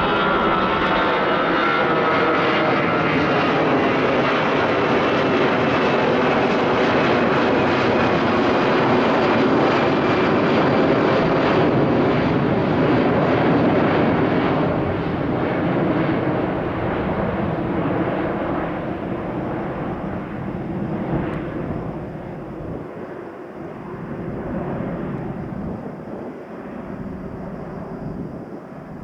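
Four CFM56 turbofan engines of an Airbus A340-300 at takeoff thrust: a loud, steady roar with falling tones early on, fading gradually over the second half as the airliner climbs away.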